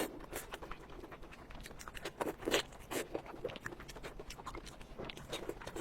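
A person chewing and crunching food close to the microphone: a run of irregular crisp clicks and crackles, loudest a little over two seconds in.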